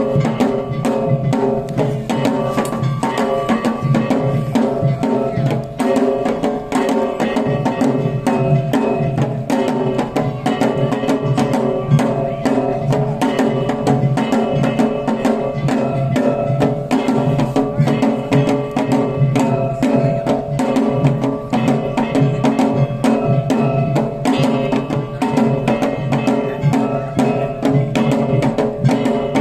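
Shishimai lion dance accompaniment from Kagawa: drums and other percussion beaten in a continuous, dense rhythm over held pitched tones.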